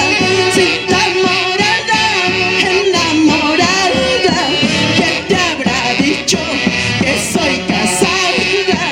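A live band playing a song with a steady beat and melodic lines, with no lyrics sung.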